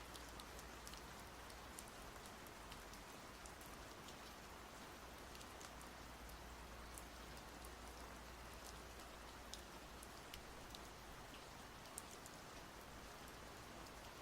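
Faint, steady rain falling: an even hiss with many small, scattered drop ticks.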